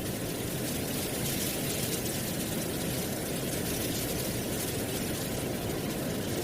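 Steady wind blowing through trees and dry autumn leaves: an even rushing noise, heaviest in the low range, with a faint crisp rustle of leaves over it.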